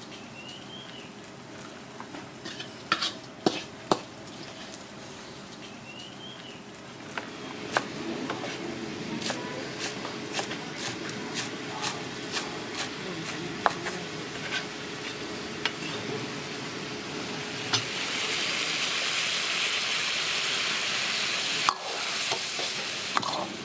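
Food sizzling in a hot wok while a metal spatula stirs, scrapes and strikes the pan in quick, repeated clicks. The sizzle grows louder and brighter about eighteen seconds in.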